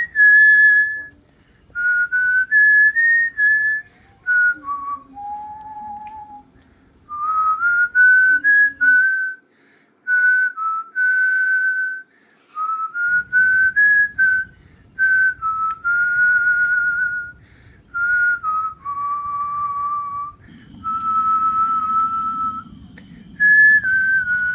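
A person whistling a tune: a string of clear held notes that step up and down in pitch, with short breaks between phrases.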